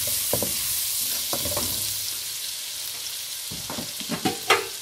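Oil sizzling steadily as sliced onion and spring onion fry in a wok, stirred with a metal ladle that scrapes and knocks against the pan a few times, the loudest knocks near the end.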